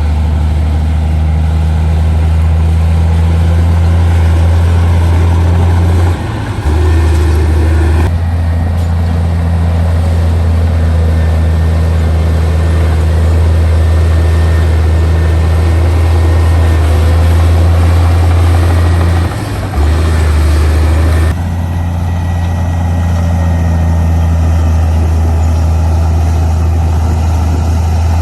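Heavy diesel engine of earthmoving machinery running with a steady low drone, with two brief dips about six and nineteen seconds in.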